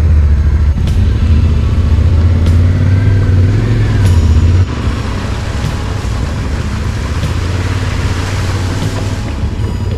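Adventure motorcycle engine running on the move, a deep steady rumble that drops in level about halfway through.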